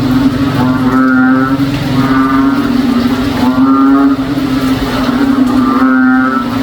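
Frogs calling in a loud chorus with a low, cow-like lowing call: a steady drone with calls swelling over it every second or two.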